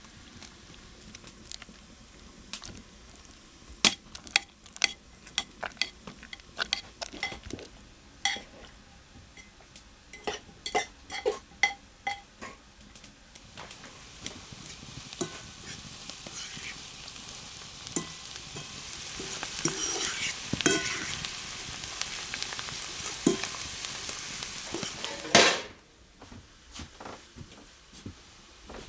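Food frying in a pan, stirred with a utensil that clicks and scrapes against it; the sizzling grows louder in the second half, ending in a loud rush that cuts off suddenly near the end.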